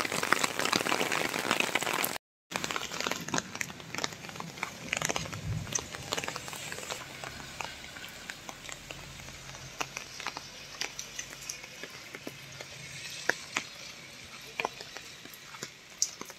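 Steady heavy rain hissing for about two seconds. After a brief dropout, lighter rain takes over: scattered drips and patter on wet paving with a faint low hum underneath.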